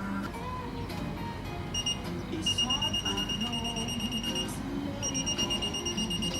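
Electronic beeper sounding a high, rapidly pulsing beep for about two seconds, then again after a short break, over background music.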